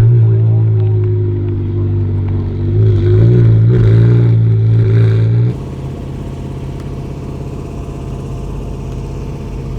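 A car engine running loud with a low, even rumble; its pitch wavers a few seconds in, as with light throttle. About halfway through it cuts off abruptly, leaving a quieter, steady engine drone.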